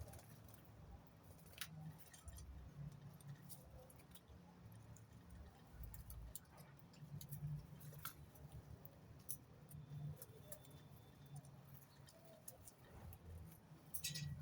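Near silence with a faint low hum and scattered faint clicks and ticks, a few louder ticks close together near the end.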